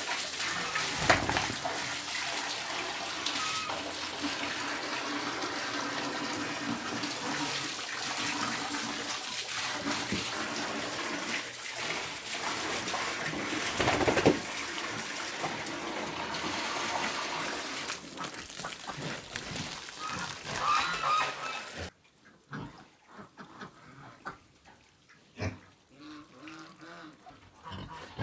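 Water running or gushing steadily, with faint animal calls mixed in; it cuts off suddenly about 22 seconds in, and what follows is quieter, with short separate grunts of pigs.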